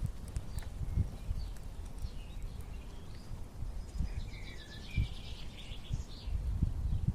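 Small birds chirping, with a rapid trill of repeated notes about four seconds in, over low rumbling and a few dull thumps.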